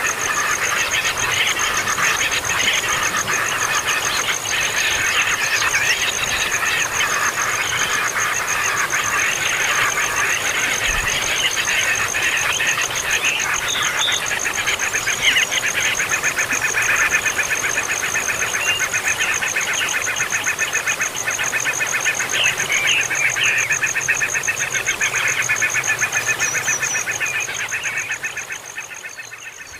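A brood of nestling birds calling nonstop in a dense, rapid chatter, over a steady high pulsing buzz; the calls thin out and the level drops near the end.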